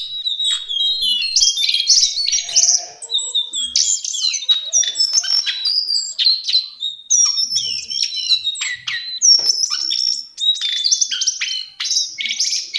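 Lesser shortwing singing: fast, high, jumbled warbling phrases, one after another with short breaks between them.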